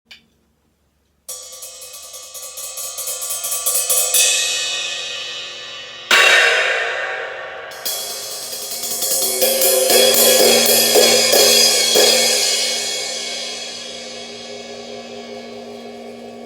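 Cymbals played as music: a fast roll on a cymbal swells louder for a few seconds, then a loud crash about six seconds in and another near eight seconds, ringing out and slowly fading.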